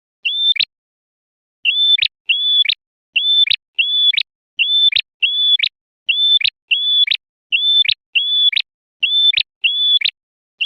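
Male prenjak merah calling: a loud series of identical short notes, each a level whistle ending in a sharp downward flick. After one call at the start there is a pause of about a second, then the calls repeat steadily at about two a second.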